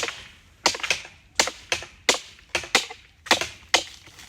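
A sharp hand blade chopping at a date palm trunk, cutting away the old frond bases: about ten quick, irregularly spaced strikes.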